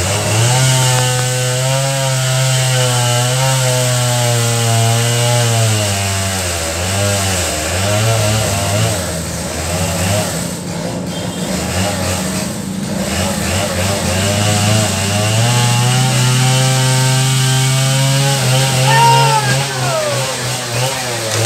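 Chainsaw running at high revs as it cuts a fallen tree, its pitch sagging and wavering under load in the middle, then rising again.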